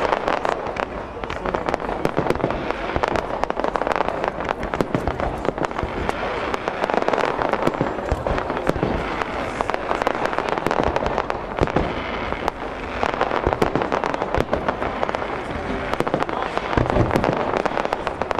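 Aerial fireworks display: shells bursting in the sky, with many sharp bangs and pops in quick succession and no pause.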